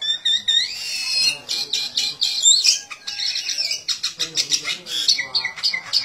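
Small bird giving a rapid, continuous stream of high-pitched chirps and squawks, a mix of sliding notes and fast harsh chatter.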